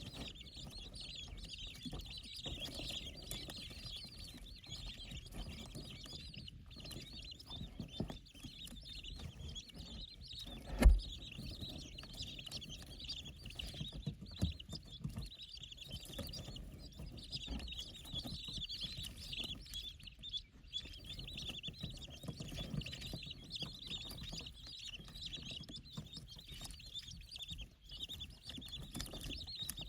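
A group of young Chinese painted quail chicks (sold as "Rutin chickens") peeping continuously in thin, high calls, with light tapping and rustling. There is one sharp loud knock about eleven seconds in.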